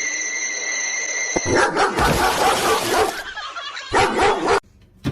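A dog yipping and barking, starting about a second and a half in after a steady high-pitched tone over hiss, and cutting off suddenly near the end.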